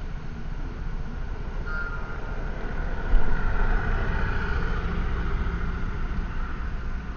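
Motor vehicle running with a steady low rumble. There is a sharp knock about three seconds in, then a swell of noise that slowly fades, as of a vehicle passing close by.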